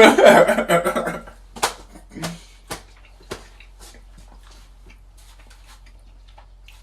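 Chewing close to the microphone: a few sharp wet mouth clicks and smacks over the first few seconds, then fainter ticks.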